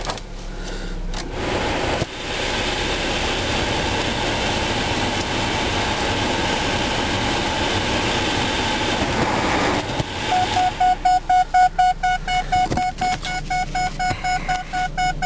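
A 2001 Ford Focus's 2.0-litre Zetec four-cylinder engine running. About ten seconds in, the seatbelt reminder chime starts, a quick repeating beep of about four a second, signalling an unbuckled seatbelt.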